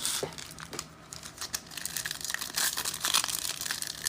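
Foil trading-card pack wrapper crinkling and tearing as it is ripped open by hand, a dense run of small crackles that picks up about a second and a half in.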